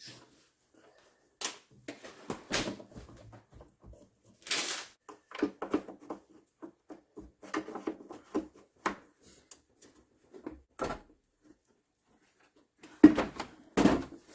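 Scattered clicks, knocks and rustles of car parts being handled and fitted by hand, with a brief rustle about four and a half seconds in and a few louder knocks near the end.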